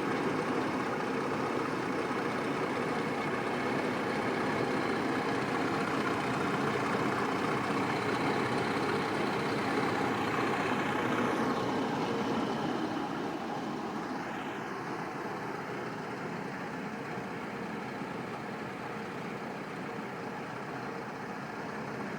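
1980 Buick Electra's V8, which the owner believes is an Oldsmobile 307, idling warm and steady; it gets somewhat quieter about thirteen seconds in.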